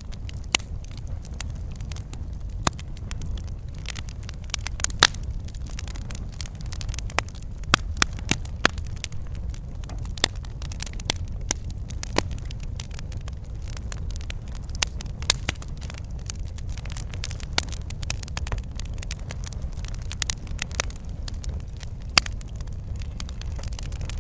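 Wood fire crackling and popping in a fireplace: irregular sharp snaps, a few at a time, over a steady low rumble of burning.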